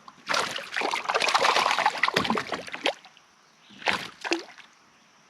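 Water splashing as a hooked smallmouth bass thrashes at the surface beside a kayak, for about three seconds, then a shorter burst of splashing about four seconds in.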